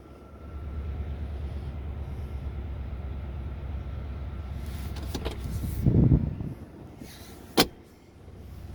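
Pickup truck idling with a steady low rumble. About six seconds in there is a heavy thump, and a sharp click follows a moment later, after which the rumble is quieter.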